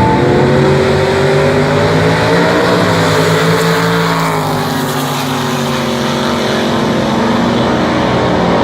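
Big-displacement drag-racing V8 engine, announced as a 501-cubic-inch 1964 Pontiac GTO, running loud. Its pitch climbs at the start, then sags slowly over the following seconds.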